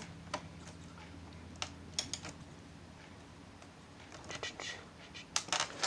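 Scattered light clicks and taps of plastic laptop parts being handled during reassembly, a few spaced apart and then a quicker run of ticks near the end.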